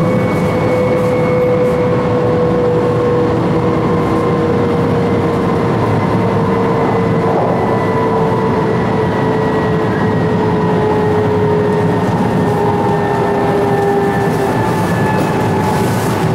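Running noise of an E4 series Shinkansen at speed, heard inside the car's vestibule: a steady rushing noise with a faint whine that slowly falls in pitch.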